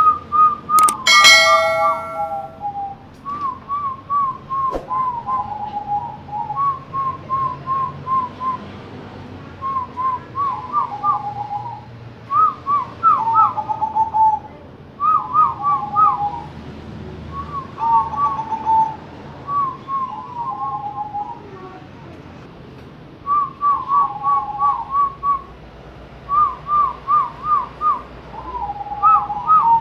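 Zebra doves (perkutut) cooing in a singing contest: phrases of quick clipped notes that drop to lower drawn-out coos, repeated every couple of seconds, the phrases sometimes overlapping as the two birds answer each other. A louder, fuller tone sounds briefly about a second in.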